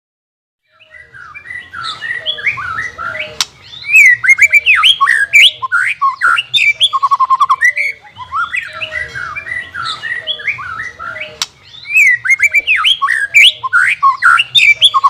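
White-rumped shama song: a rich run of varied whistles, chirps and sweeping notes with a fast trill. The same sequence of phrases repeats about every eight seconds, as from a looped recording played back.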